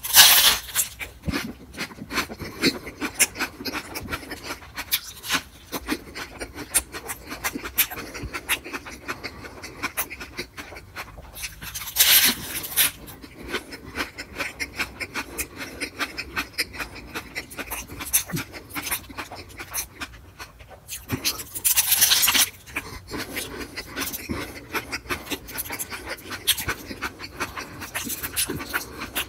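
Close-miked chewing of a tortilla wrap: a loud bite at the start, then steady wet chewing and mouth clicks. Two more louder noisy bursts come about twelve and twenty-two seconds in.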